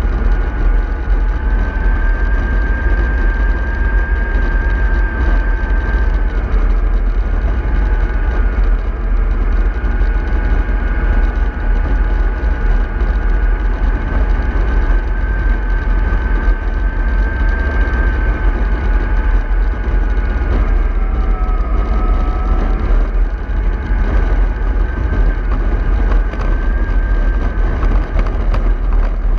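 Remote-control model bus running steadily, with a constant low rumble under a high motor whine that dips in pitch briefly about two-thirds of the way through.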